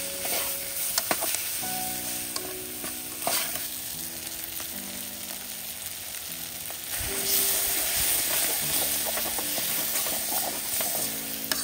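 Sausage, onion and spinach sizzling in a metal camping pot on a propane camp stove while a spoon stirs them, with short clicks of the spoon against the pot. The sizzle gets louder about seven seconds in. Soft background music with held notes plays underneath.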